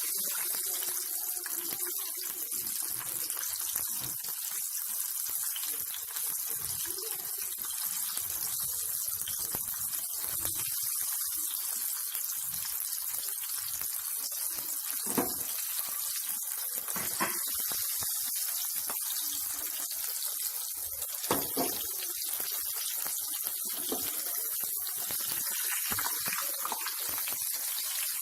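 Vegetable patties deep-frying in hot oil: a steady high sizzle, with a few sharp pops around the middle.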